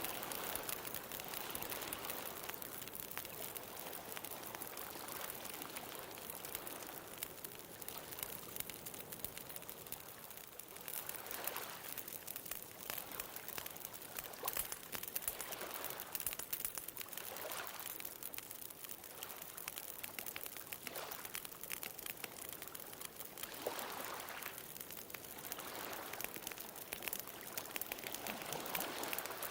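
Wood bonfire crackling with many small pops, over ocean waves washing in and drawing back, swelling every few seconds.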